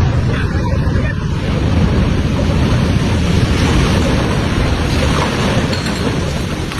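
Loud, steady rushing of fast-flowing floodwater.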